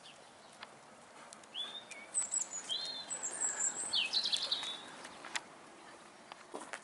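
A songbird singing a short phrase of quick, sweeping chirps and whistles, starting about a second and a half in and stopping about five seconds in.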